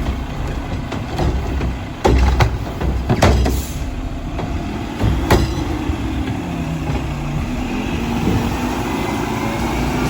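Mack LR garbage truck's engine running with several sharp metal clanks from the Heil Odyssey body and Curotto Can working a cart. After about six seconds the engine note climbs and holds.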